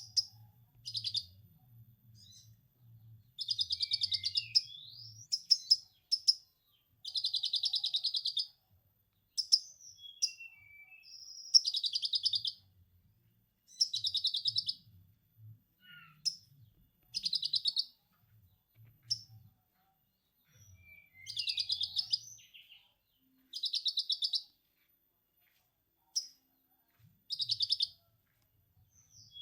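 Konin songbird singing lovebird-style 'ngekek' chatter: repeated bursts of rapid high trilling, each about one to two seconds long, with short whistled notes and pauses between them.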